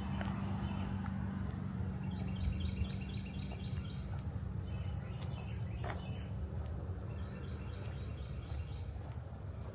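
Songbirds chirping: two runs of quick, evenly repeated high notes and a few single chirps, over a steady low rumble with a hum, like distant city traffic.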